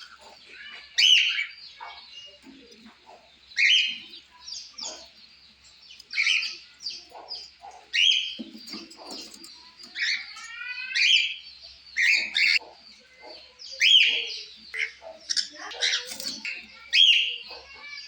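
Cockatiel calling: loud, short chirps about every two seconds, with softer chatter in between.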